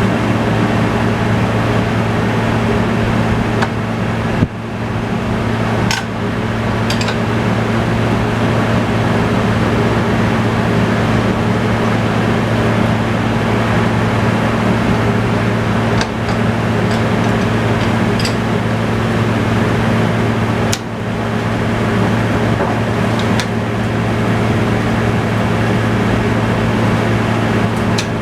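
Tractor engine running steadily at a constant speed, driving the sawmill, with a deep, even hum. A few sharp metal clicks and knocks sound over it at intervals.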